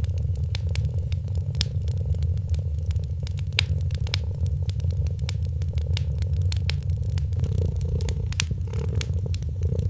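A cat purring steadily in a continuous low rumble, with a wood fire crackling over it in irregular sharp pops and snaps.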